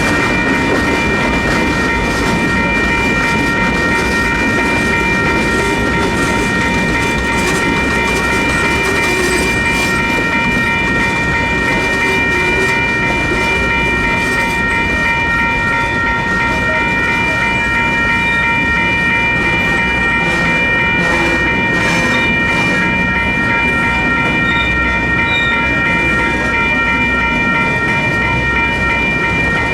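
Union Pacific manifest freight train's cars rolling slowly through a grade crossing. Over them, the crossing's two WCH electronic bells ring steadily as a set of high, held tones.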